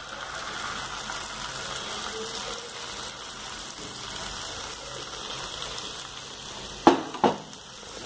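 Diced potatoes and onions frying in oil in a pan, a steady sizzle, as a thick puree is poured in from a steel mixer jar. Two sharp knocks come close together about seven seconds in.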